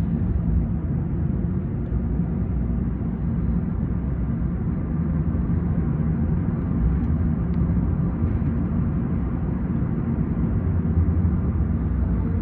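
Steady low rumble of a taxi moving along the road, engine and tyre noise heard from inside the cab.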